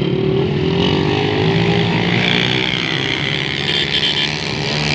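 Motorcycle engine running, holding a fairly steady pitch with slight dips.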